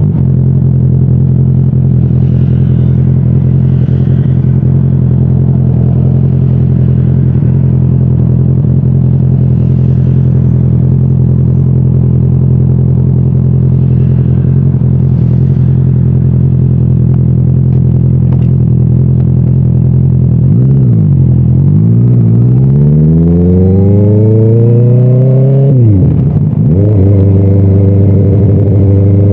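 Motorcycle engine cruising at steady revs. About two-thirds of the way in, the revs dip briefly, then climb in a long rising pull under acceleration. Near the end they fall suddenly at a gear change and settle steady again.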